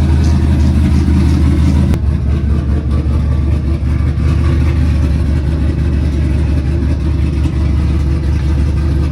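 A vehicle engine running loud and steady with a deep hum, heard close. About two seconds in, its sound turns abruptly rougher and more uneven.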